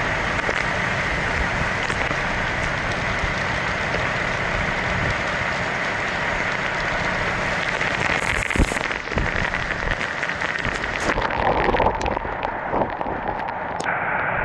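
Rainstorm with strong wind gusts: a steady rushing hiss of wind and rain, changing in character about eleven seconds in, with scattered sharp ticks.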